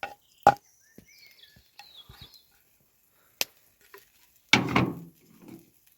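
A metal utensil knocking and scraping a few times against a frying pan of cooking omelette, the loudest knock about half a second in and a longer scrape-and-knock around four and a half seconds in. Faint bird chirps between them.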